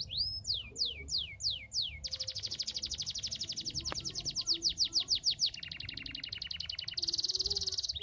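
Domestic canary singing in full song: a handful of slow downward-swooping notes, then fast rattling trills that change pitch and speed every second or two, ending in a very rapid high trill.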